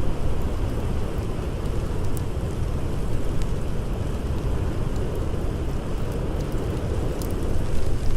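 Blizzard wind blowing steadily with a deep rumble, with a few faint pops from a campfire crackling.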